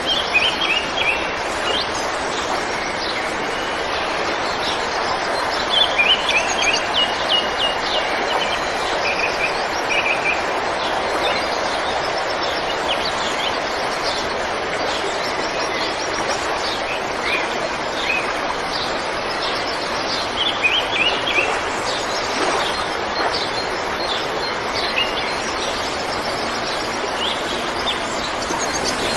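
River water rushing steadily, with small birds chirping over it in short, quick phrases now and then.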